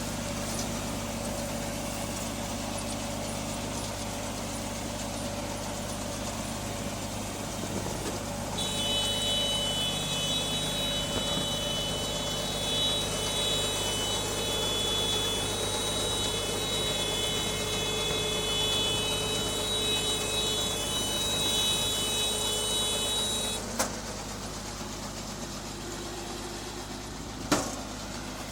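Engine of a tractor working a paddy straw baler, running steadily. From about nine seconds in a high steady whine with a hiss joins it, cutting off suddenly about fifteen seconds later, followed by two sharp knocks a few seconds apart.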